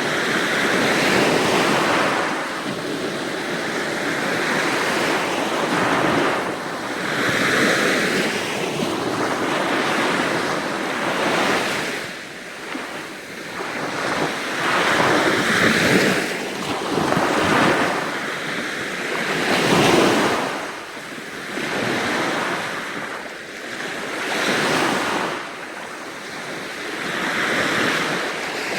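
Sea waves breaking and washing ashore, the rushing surf swelling and falling away every few seconds.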